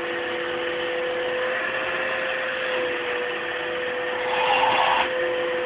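Vacuum cleaner motor running with a steady whine over its rushing airflow. Near the end the sound swells and brightens for under a second, then settles back.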